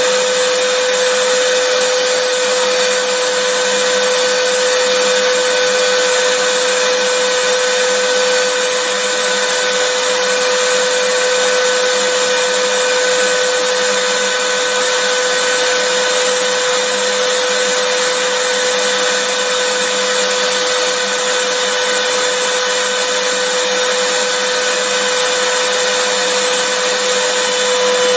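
Vacuum cleaner motor running steadily, a constant rushing of air with a steady high whine.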